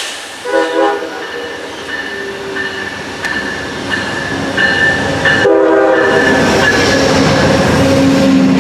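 Locomotive chime horn sounding two short chords about five seconds apart as a train approaches. Under them a steady high squeal, then the rumble of the train grows loud over the last few seconds as it passes.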